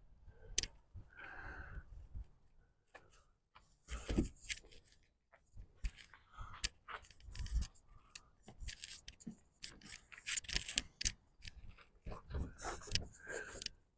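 Towel wiping and rubbing over a truck's paint as spray sealant is worked in to dry it. The sound is a string of irregular short scrapes, rubs and clicks.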